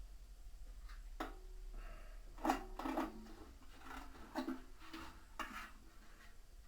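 A series of knocks and clatters, some with a short ringing tone, as parts or tools are handled during washing-machine drum and tub assembly.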